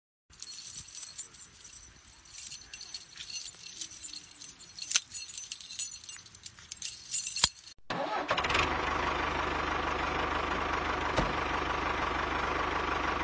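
Irregular clicking and light rattling of small parts, with a few sharp clicks. About eight seconds in, this gives way to the small electric motor of a miniature model tractor running steadily with a high whine.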